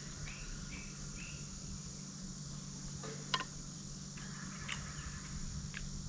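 Insects trilling steadily in the forest, with a few short bird chirps in the first second. A single sharp click about three seconds in.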